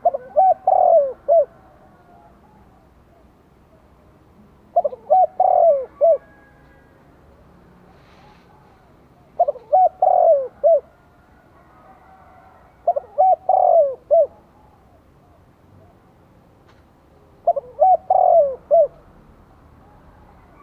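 Decoy spotted dove cooing: five phrases of several notes each, one about every four and a half seconds, with faint chirps of other small birds behind.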